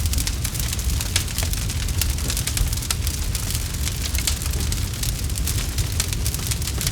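Campfire crackling: burning wood gives many quick, irregular snaps and pops over a steady low rumble.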